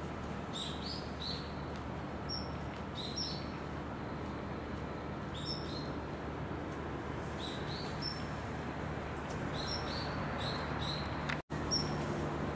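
Small songbirds chirping: short high calls in quick groups of two or three, every second or two, over a steady low drone and hiss. The sound drops out for an instant about eleven and a half seconds in.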